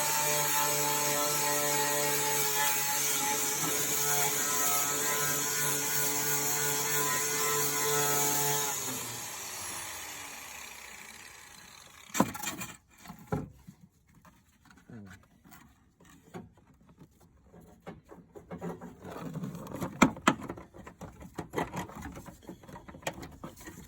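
Power tool spinning a wire brush against the corroded battery tray with a steady whine, then winding down about nine seconds in. After it stops there are scattered scraping, clicking and knocking sounds as parts are handled.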